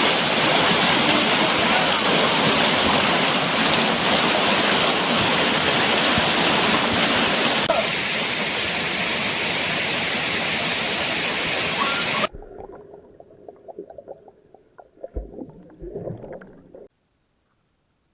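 Waterfall rushing steadily and loudly as white water. It cuts off suddenly about twelve seconds in, leaving a few faint scattered sounds and then silence.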